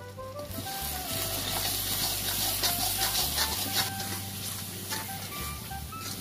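Spice paste sizzling in oil in a metal kadai while a metal ladle stirs and scrapes it, the ground spices just added for frying, with background music over it. The sizzle comes up about half a second in.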